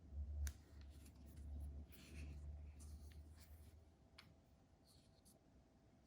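Faint handling noise: a few low bumps and scattered light clicks and rustles, fading toward near silence in the last couple of seconds.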